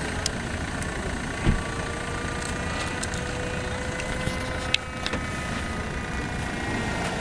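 A vehicle engine idling steadily, a low rumble with a faint hum that drifts slightly in pitch; a soft thump about a second and a half in and a click past the middle.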